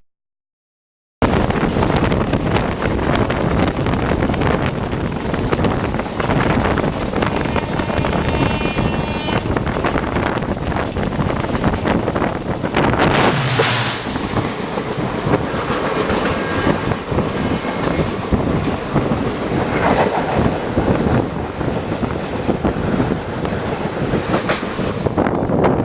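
About a second of silence, then the rush and rapid wheel clatter of a passenger train's coaches passing close by on the adjacent line, heard from aboard a moving express train.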